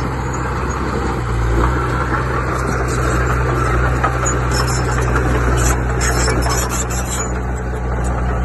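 Diesel engine of heavy earthmoving machinery running steadily, with brief high squeaking a little past halfway through.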